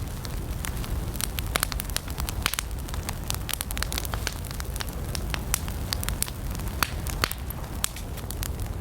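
Campfire of burning wood crackling, with many irregular sharp pops and snaps over a steady low rumble of the flames.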